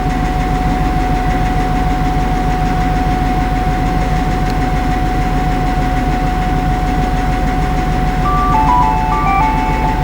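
Railway locomotive idling at the platform: a steady low rumble with a constant high whine. Near the end a short electronic chime of several stepped notes sounds over the station loudspeakers, the signal that opens a train announcement.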